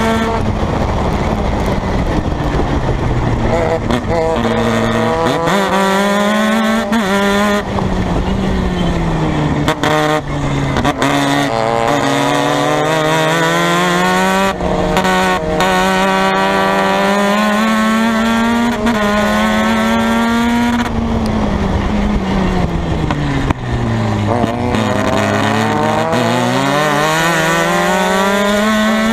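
Formula Mazda race car's two-rotor Mazda rotary engine at racing speed, climbing in pitch through the gears with a brief break at each upshift. Several times the pitch falls away as the car brakes and downshifts for corners.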